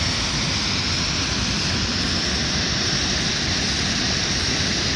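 Nafakhum Waterfall's steady, unbroken rush of falling water.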